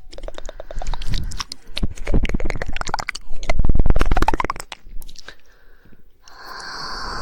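ASMR mouth sounds close to the microphone: rapid wet tongue clicks and smacks in dense runs, the 'woodpecker' tongue-clicking. After a short pause, a steady breathy hiss starts near the end.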